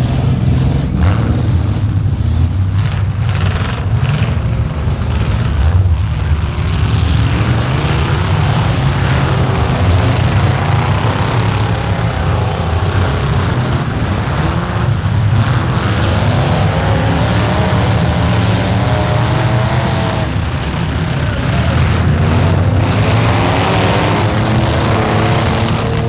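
Several truck engines running loud and steady, with wavering higher engine notes over a deep low rumble. A series of sharp knocks comes in the first few seconds.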